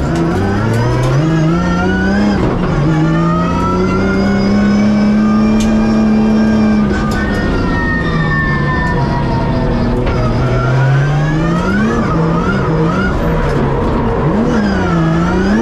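Toyota 2JZ turbocharged inline-six of a Nissan S14 drift car, heard from inside the cockpit. It pulls up through the revs over the first couple of seconds, holds high revs for several seconds, then drops off, with quick sharp revs near the end. The engine is running with its boost and rev limit turned down for a shakedown test.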